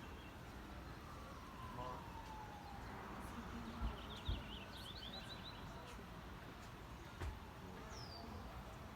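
A faint distant siren, one long wail falling in pitch, with birds chirping and a few brief low thumps against the outdoor background.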